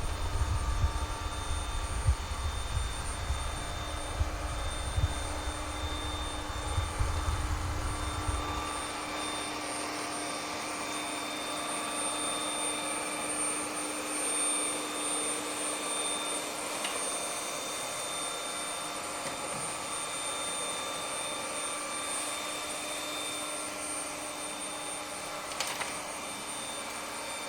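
Ecovacs Deebot N30 robot vacuum cleaner running, its suction fan giving a steady whine and hiss. A low rumble underneath stops about nine seconds in, and there is one sharp click near the end.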